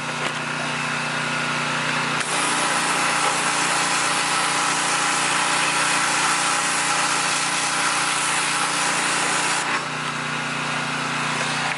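A pressure washer running with a steady hum; about two seconds in, its spray hisses out at full force for about seven and a half seconds, then cuts off, leaving the hum.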